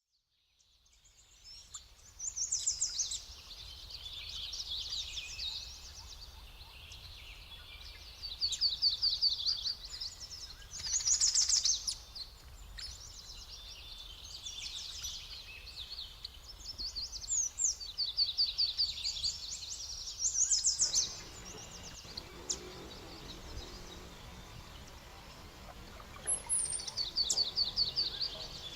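Songbirds singing: short phrases of rapid high chirping notes come every few seconds, over a steady low background rumble.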